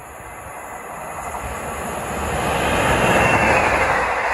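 Charter passenger train approaching and running past the platform, its rumble and rail noise growing steadily louder over the first three seconds, then holding as the coaches pass.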